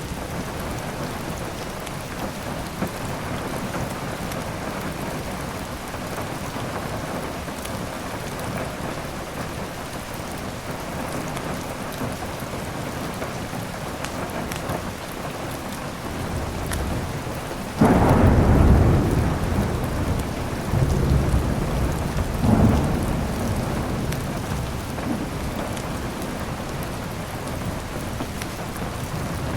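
Steady rain falling, with a sudden loud thunderclap a little past halfway that rolls on as low rumbling for several seconds, swelling again briefly before it fades.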